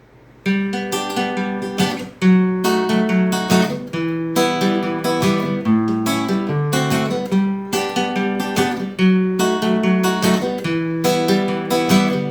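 Acoustic guitar strumming chords in a steady rhythm, the instrumental intro to a song, starting about half a second in.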